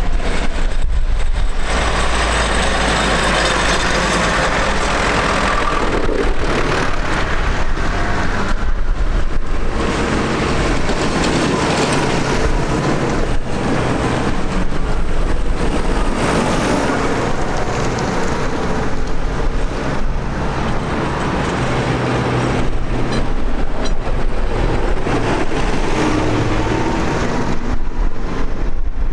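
Tractor diesel engines running steadily as tractors drive by in convoy.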